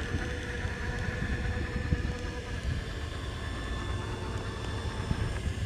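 Large electric RC car running, with a steady faint whine over a low rumble.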